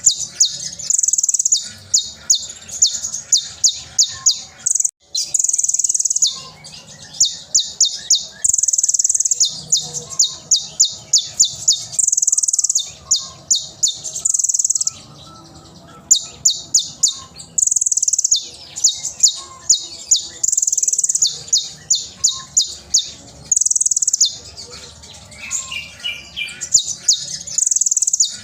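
Brown-throated sunbird (kolibri ninja) singing loudly and continuously: fast runs of sharp, high, clipped notes, several a second, alternating with brief held high notes, phrase after phrase.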